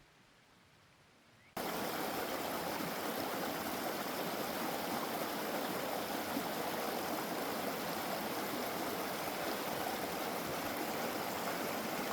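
Mountain stream rushing: a steady, even sound of flowing water that cuts in suddenly about a second and a half in.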